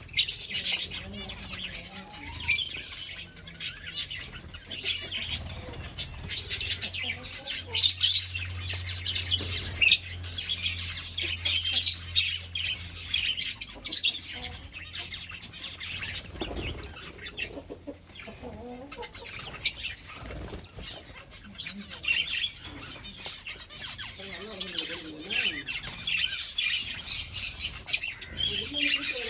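Aviary finches chirping, many short high calls overlapping without pause.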